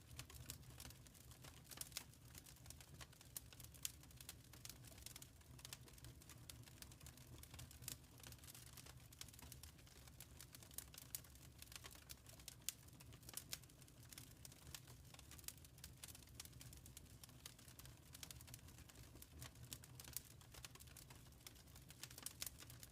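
Wood fire in a fireplace crackling faintly, with frequent irregular sharp snaps and pops over a low steady rumble.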